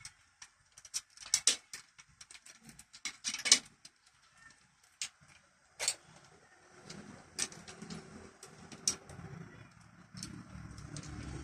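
Irregular sharp clicks and knocks, the loudest about three and a half seconds in, then from about seven seconds a steady low rumble that grows a little louder.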